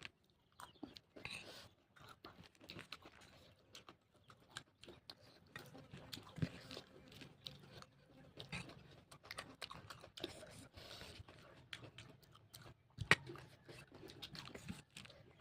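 A person chewing food close to the microphone: faint, irregular wet chewing and crunching, with one sharper, louder crunch about thirteen seconds in.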